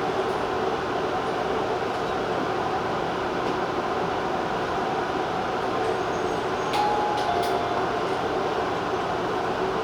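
Tobu TJ Liner electric train running along the line, a steady rumble of wheels on rail and running gear, with a few sharp clicks about seven seconds in.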